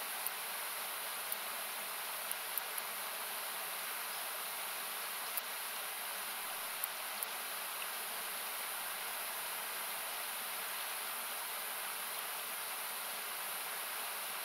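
Steady rush of a river, thinned by equalisation so that it comes across as a hiss, with faint sharp pops of a wood campfire crackling several times in the first half.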